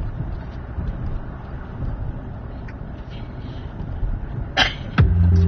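Steady road and engine rumble inside a moving car's cabin. A sharp click comes near the end, and music starts playing on the car stereo just after it.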